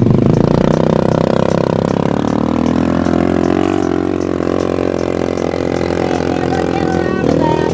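A motor vehicle's engine running steadily, its pitch shifting a little midway.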